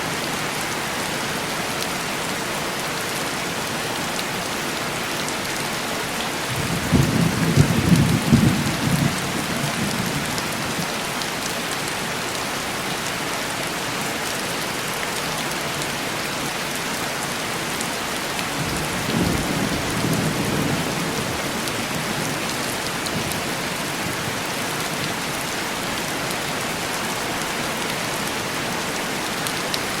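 Steady heavy rain tapping on window glass, with two rolls of distant thunder: a louder one about seven seconds in, lasting a few seconds, and a softer one about nineteen seconds in.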